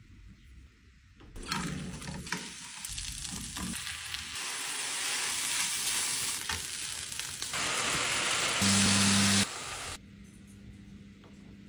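Mushrooms and burger patties sizzling in frying pans, with a spatula stirring. The frying starts about a second and a half in, grows louder, and cuts off suddenly near ten seconds.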